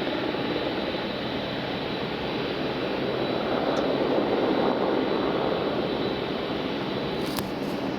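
Mitsubishi MRJ regional jet's Pratt & Whitney PW1200G geared turbofan engines running during a ground engine test: a steady jet rush with a thin high whine, swelling slightly about halfway through.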